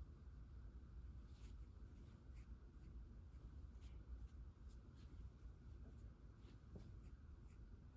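Near silence in a small room, with faint light scratches and soft ticks scattered irregularly over a low background hum.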